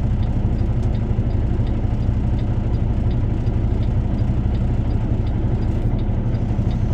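Semi truck's diesel engine idling steadily, with a faint regular ticking about twice a second over it.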